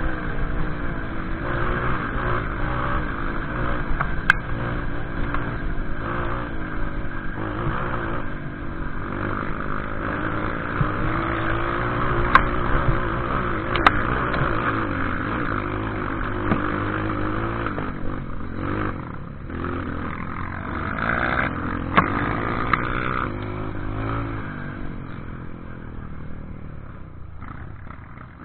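Off-road vehicle engine running on a rough trail, its pitch rising and falling with the throttle, with clatter and a few sharp knocks.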